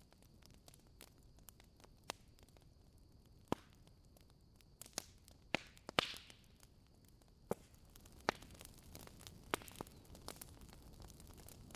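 Wood fire burning in a fireplace: irregular sharp pops and crackles over a faint steady hiss. The loudest pop comes about six seconds in and is followed by a brief hiss.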